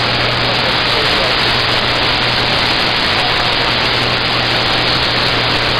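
Steady, loud hiss of radio static from a mobile two-way radio's receiver, with a constant low hum underneath.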